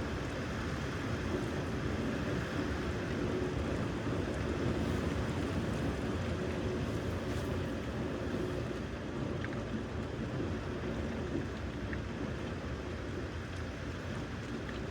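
Steady rushing storm wind, an even noise that holds level without any distinct claps or impacts.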